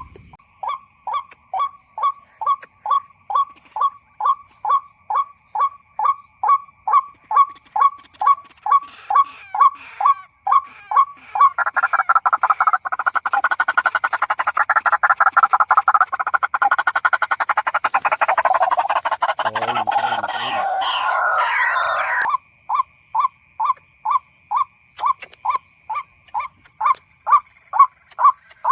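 White-breasted waterhen calls played over an MP3 bird-lure speaker: a very regular run of short call notes, about three a second. From about 12 seconds in to about 22 seconds in, a louder, denser stretch of rapid overlapping calls, then the regular notes resume.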